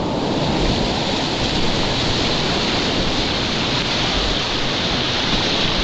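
Steady rush of whitewater in a river rapid: an even, unbroken wash of water noise.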